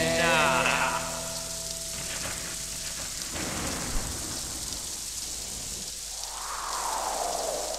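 Rain sound effect of steady falling rain with rumbling thunder, as the song's last notes fade out in the first second or two.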